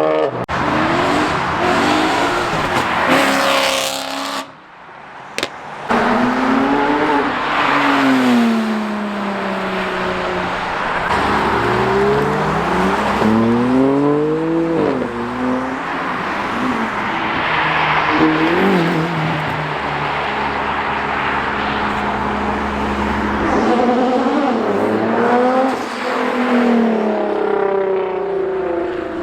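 Car engines revving hard and accelerating away one after another, their pitch climbing and dropping again and again through the revs and gear changes, over a steady hiss of tyre noise.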